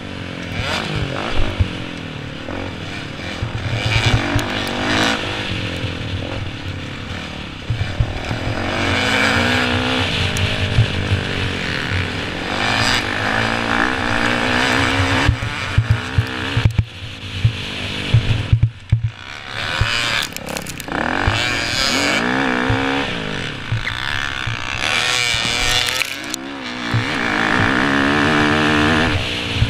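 Motocross dirt bikes riding the track, their engines revving up and down over and over, rising and falling in pitch.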